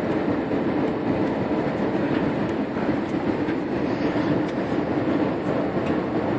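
Steady rumbling noise inside an airliner cabin, with a few faint clicks and rattles.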